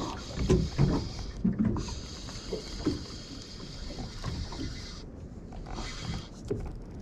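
Fishing reel being cranked in stretches to bring in a hooked fish, its high whir stopping and starting, over low rumble and knocks from handling on the boat.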